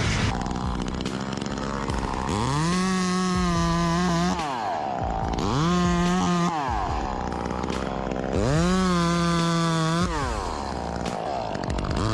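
Chainsaw engine revving up to full speed and dropping back to idle, three times, each burst held for one to two seconds, with a fourth rev starting near the end.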